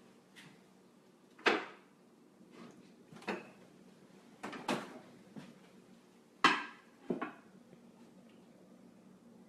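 Kitchen clatter: dishes and utensils being set down and moved on a counter, a series of sharp knocks about a second or two apart, the loudest about a second and a half in and near six and a half seconds.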